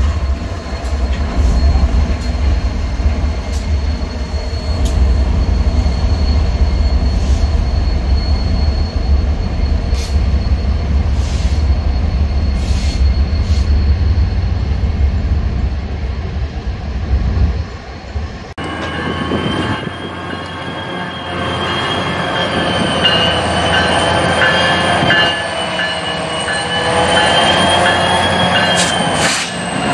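A BNSF freight train rolling past: a heavy low rumble of diesel locomotives and cars with scattered clanks. After a sudden cut about two-thirds in, another freight train moves through a grade crossing with steel wheels squealing on the rail in several high, wavering tones.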